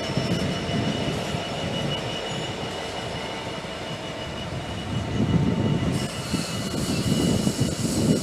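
A train moving at the station platform: a steady rumble under held high-pitched whining tones, getting louder and rougher about five seconds in.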